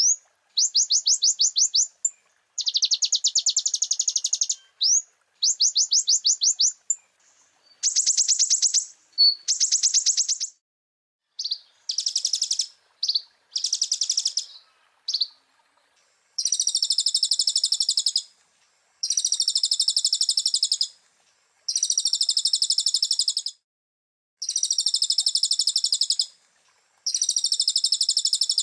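Konin (kolibri ninja sunbird) song on a birdkeepers' training track. It comes as repeated high-pitched trilled phrases, each about one to two seconds long, with short gaps between them. From about halfway through, the phrases become faster and buzzier.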